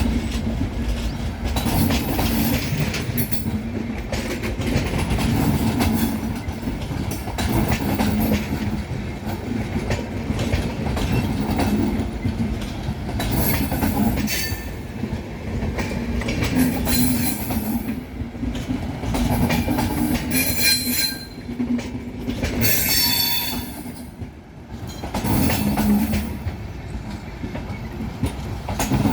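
Express passenger coaches rolling past, wheels clattering steadily over rail joints, with short high-pitched wheel squeals several times along the way.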